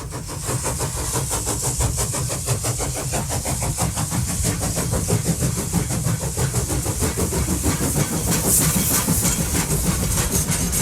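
Railway locomotive running with a fast, even beat over a deep rumble and a steady hiss.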